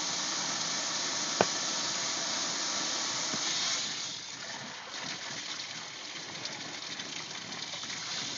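Water spraying and gushing from a live, pressurised water line that is cut open for repair, a steady hiss that eases somewhat about four seconds in. A single sharp knock about a second and a half in.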